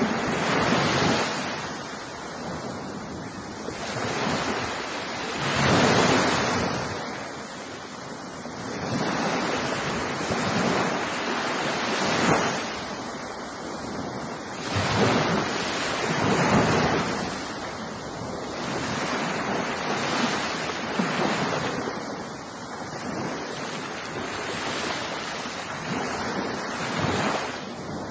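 Ocean surf, waves breaking and washing onto the shore one after another. Each swell rises and falls over a few seconds, about six in all.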